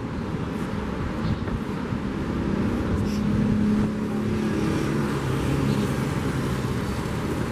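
A motor vehicle passing on the seafront road, its engine hum loudest about three and a half seconds in, over a steady wash of surf and wind.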